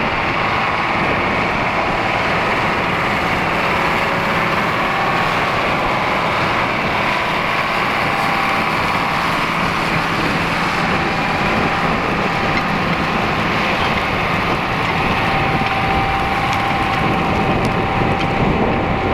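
Diesel farm tractor engine running steadily under load while pulling a moldboard plow.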